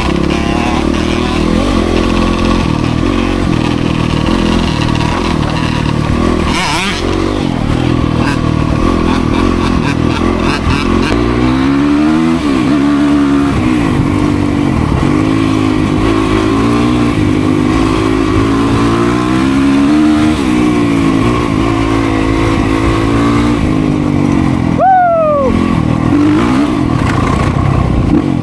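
Dirt bike engine being ridden, its pitch rising and falling repeatedly with the throttle. A brief high squeal that falls in pitch comes near the end.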